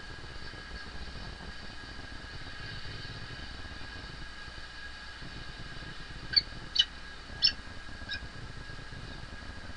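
Falcon giving four short, sharp calls in about two seconds, the last one fainter, over a steady low background rumble.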